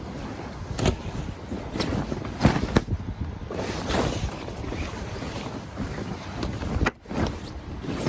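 Wind buffeting the microphone, with about four sharp knocks in the first three seconds.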